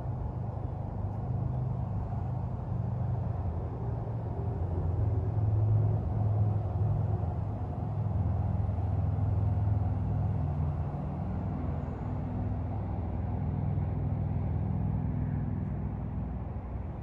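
Mercedes-Benz SL550's V8 engine idling with a steady low hum, louder through the middle of the stretch.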